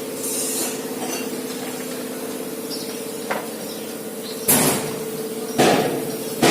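Hammer blows on metal, one about every second, starting about four and a half seconds in, over a steady low hum.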